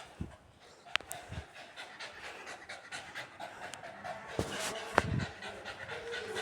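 A pet dog panting in quick, repeated breaths close by, with two sharp clicks, one about a second in and one at about five seconds.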